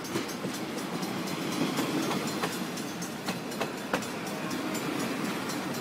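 Train cars rolling slowly past, a steady rumble with irregular wheel clicks over the rail joints.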